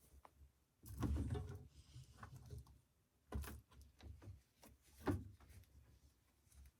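Zanussi FL984CN washing machine running its wash programme: a series of soft, uneven thuds and knocks with a low rumble, the loudest about a second in, at three and a half seconds and at five seconds.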